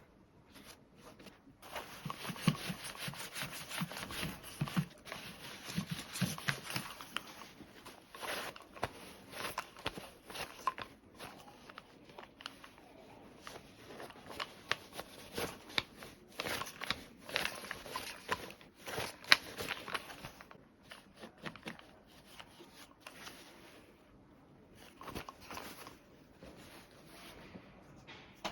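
Scissors cutting fabric, with the cloth rustling as it is handled: a dense run of crisp snips and rustles that thins out after about twenty seconds.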